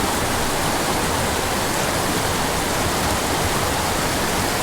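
Steady, loud rush of a steep mountain creek tumbling over cascades and small waterfalls.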